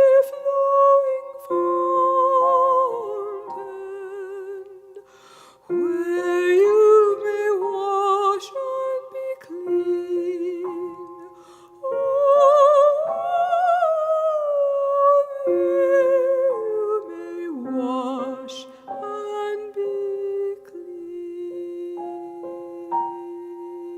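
Soprano voice singing with wide vibrato over piano accompaniment, with a long high held note about halfway through.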